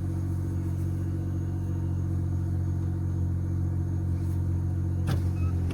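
2012 Acura RDX's 2.3-litre turbocharged four-cylinder idling steadily shortly after a cold start, heard through a straight-piped exhaust with the rear muffler deleted and a Magnaflow glasspack in place of the stock resonator. A brief click about five seconds in.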